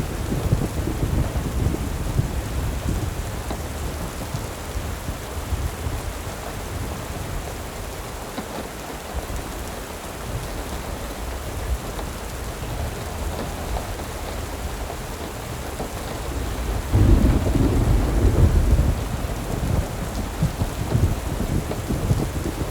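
Steady rain with rumbling thunder. A louder roll of thunder starts suddenly about seventeen seconds in and dies away over a few seconds.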